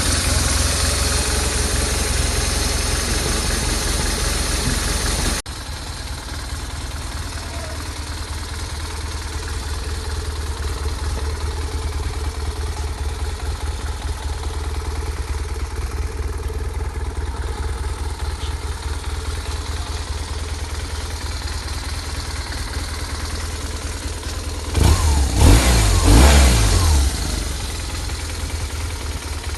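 BMW R 1200R boxer-twin engine idling steadily while still cold, running quietly with no knocks, its timing tensioner just replaced to cure an extraneous noise. The level drops suddenly about five seconds in, and near the end the throttle is blipped once, the revs rising and falling.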